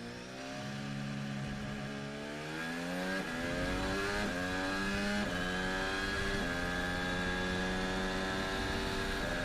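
Formula 1 car's 1.6-litre turbocharged V6 hybrid engine (Red Bull's Honda power unit) accelerating from onboard, its pitch rising and dropping back with each of several upshifts, over a steady high whistle.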